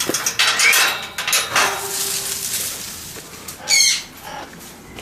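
Parrots flapping their wings, with one loud parrot squawk a little under four seconds in.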